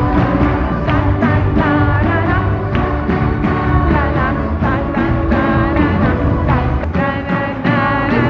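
Live gospel worship music: a band with drums and bass plays while voices sing a melody together.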